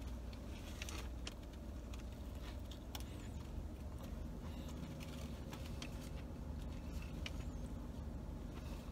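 Quiet chewing and small wet mouth clicks from biting into and eating a sauce-dipped brisket sandwich, over a faint steady low hum of the car cabin.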